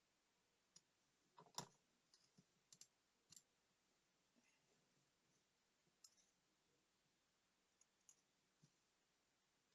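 Faint, scattered small clicks and taps, about a dozen, the loudest about one and a half seconds in: small hand tools handling the parts of a digital wristwatch during disassembly and reassembly.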